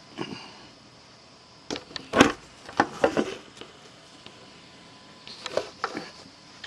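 A series of irregular knocks and clicks, clustered around two to three seconds in, where the loudest falls, with a few more near the end.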